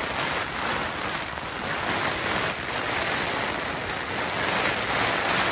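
Heavy rain pouring down steadily on a tent: a dense, even rush of rain with no break.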